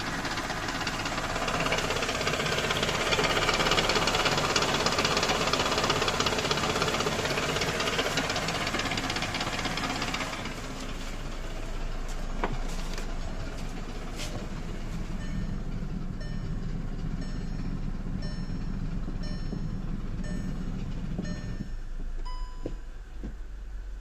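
Skoda Octavia A5 with the 1.6 BSE engine and manual gearbox running. There is loud steady noise for about the first ten seconds, then a quieter low hum with a few separate sharp knocks and a faint regular ticking. The knock is the one the owner puts down to the manual gearbox.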